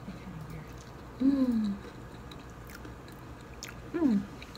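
A person chewing a mouthful of fried empanada with closed mouth, with soft wet mouth clicks. Two short falling hums break in, about a second in and again near the end.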